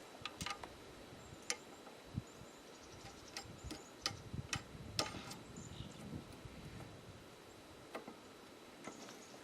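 Scattered, irregular light metallic clicks and taps of bolts, washers and star nuts being fitted by hand on a gas cultivator.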